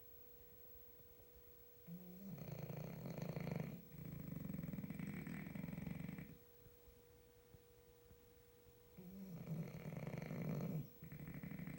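French bulldog snoring in its sleep: two long snores about seven seconds apart, each in two drawn-out parts, with a quiet pause between them.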